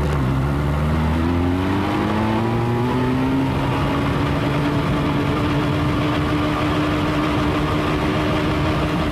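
Motorcycle engine heard from the bike itself while riding. Its pitch dips at the start, climbs over the first few seconds as the bike accelerates, then holds steady at a cruise.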